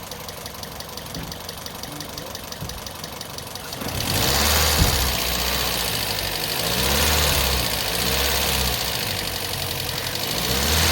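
Toyota Corolla GLi petrol engine idling with a fast, even ticking, then revved up and down several times from about four seconds in. It is being run to find an abnormal engine noise.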